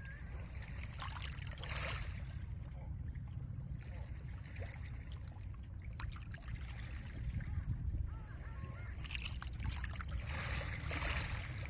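Small lake waves washing in over a pebble beach: swells of hiss scattered with pebble clicks, the largest washes a little under two seconds in and again from about nine seconds, over a steady low rumble of wind.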